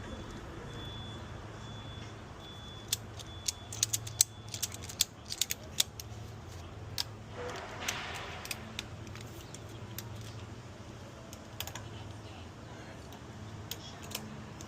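A quick run of sharp clicks and knocks, about a dozen over a few seconds, then a brief scraping rustle and a few scattered clicks, over a steady low hum.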